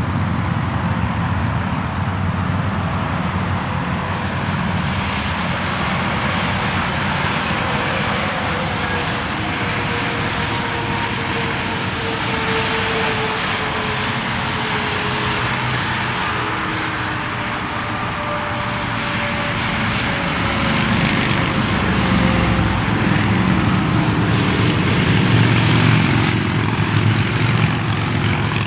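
Motorcycle engines and tyres of a long procession of bikes passing on an interstate highway, a steady mass of engine noise with pitches gliding down as bikes go by; it grows louder in the last third.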